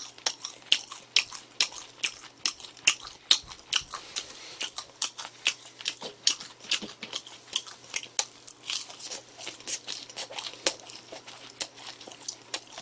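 Chewing and biting into McDonald's Chicken McNuggets, with irregular crisp crunches of the fried batter several times a second.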